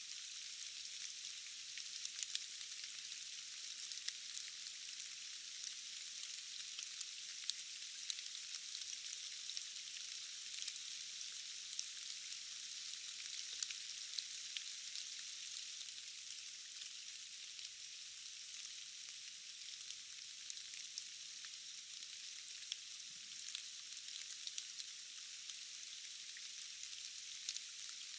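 Steady rain falling in a forest: a continuous high hiss with many scattered drops ticking on leaves and surfaces.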